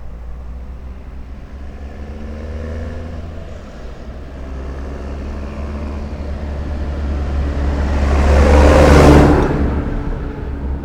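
A motor vehicle's engine approaching and passing close by, getting louder to a peak about nine seconds in, then fading away, over a steady low rumble.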